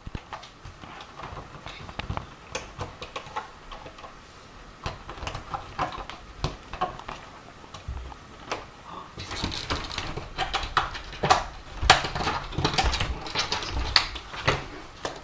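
Pet door flap clacking and rattling over and over as a cat pushes at it from the other side and then scrambles through. The clicks come thicker and louder in the last several seconds.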